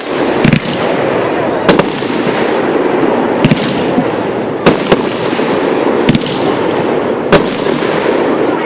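Zombie Apocalypse 19-shot fireworks cake firing: about seven sharp reports about a second apart, two of them in quick succession near the middle, over a steady hiss.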